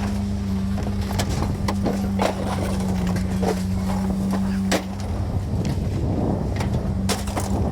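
Vehicle engine running steadily, with scattered knocks and clatters over it; the hum drops away for a moment about five seconds in and then returns.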